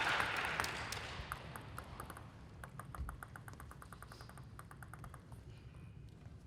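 Applause dying away, then a run of light, rapid ticks, about six a second for some four seconds, the sound of a table tennis ball being bounced quickly.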